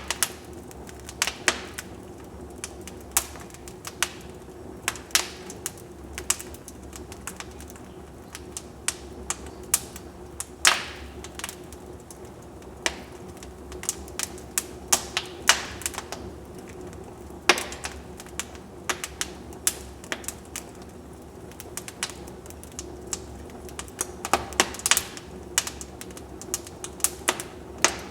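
Wood fire burning in a fireplace, crackling with irregular sharp pops and snaps over a steady low background.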